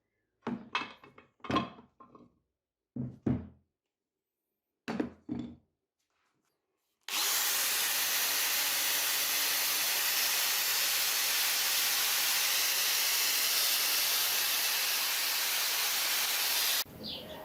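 Three short clusters of workshop tool noise, then a loud steady hiss lasting about ten seconds that cuts off suddenly near the end.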